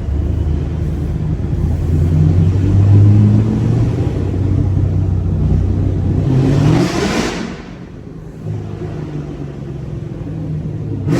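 Chevrolet Camaro SS 1LE's naturally aspirated V8 pulling under acceleration, its pitch climbing about five to seven seconds in with a rush of noise at the top. Then it drops off to a quieter steady run as the throttle is lifted.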